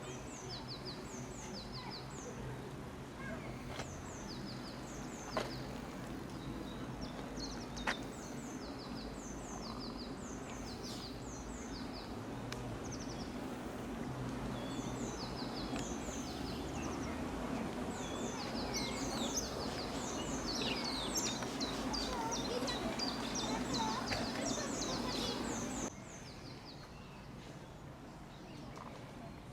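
Small birds chirping and singing, short high chirps repeated in quick series, over steady outdoor background noise. Two sharp clicks sound about 5 and 8 seconds in, and the background noise drops off suddenly near the end.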